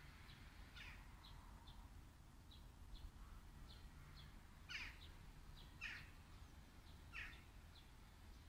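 Faint outdoor bird calls: short harsh cries that come every second or so through the second half, with thin high chirps between them, over a low steady rumble.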